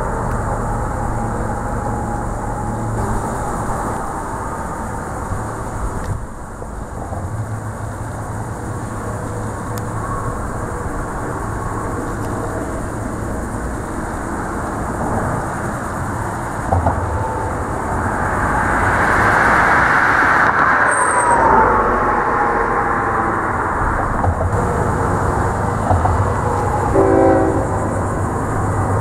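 Distant train rumble on a steady low hum, with a louder passing whoosh that swells and fades about two-thirds of the way through. A short, faint locomotive horn blast comes near the end.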